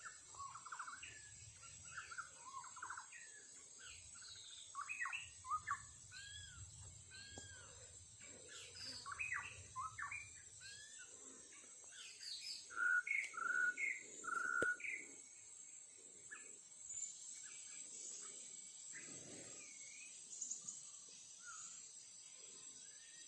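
White-rumped shama (murai batu) singing: a long run of varied, quick whistled notes and slurred phrases, loudest about halfway through.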